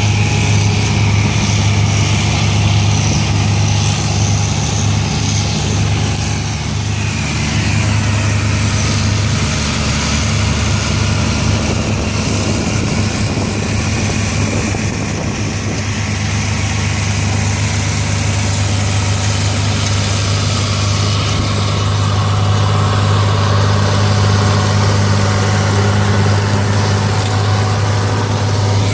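Antique tractor engine running steadily at an even, low pitch.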